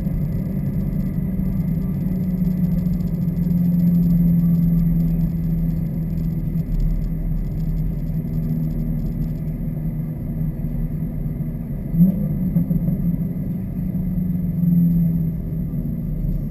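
Exhaust of a 2015 Subaru WRX's turbocharged flat-four with axle-back muffler deletes, running at a fairly steady engine speed. There is a brief rise in pitch about twelve seconds in.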